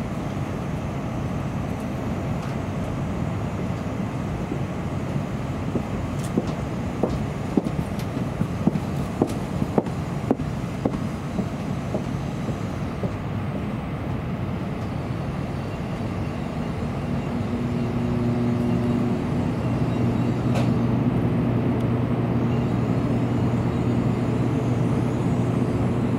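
Shinkansen train running slowly alongside the platform as it pulls in to stop, heard from inside the leading car: a steady low rumble with a run of sharp clicks about a quarter to halfway through. About two-thirds of the way through, a steady hum comes in and the noise grows louder.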